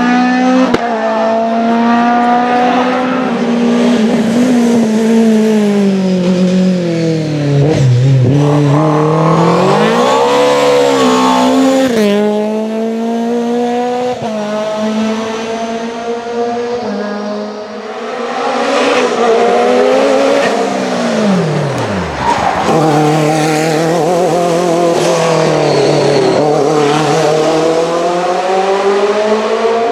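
Classic rally car engines revved hard on a stage, the note climbing and dropping again and again through gear changes and lifts, with a deep drop in pitch a little past the middle before it climbs again. Tyres squeal along with the engines.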